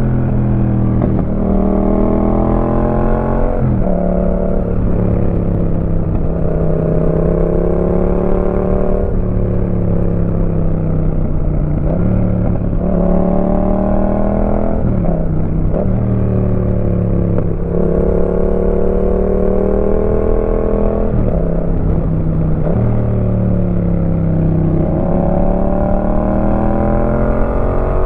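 Yamaha MT-07's 689 cc crossplane parallel-twin engine through a Roadsitalia aftermarket exhaust, heard while riding. It pulls hard with the pitch climbing, then drops sharply at each of several gear changes, with spells of easing off between them.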